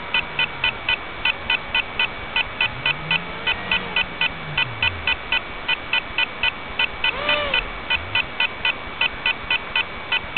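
Rapid electronic alarm beeping, about three short beeps a second at a steady pace, over a noisy hiss with a few faint tones gliding up and down.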